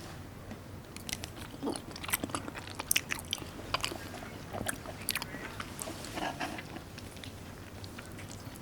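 A person chewing food close to the microphone: irregular wet smacks and clicks of the mouth, thickest from about a second in.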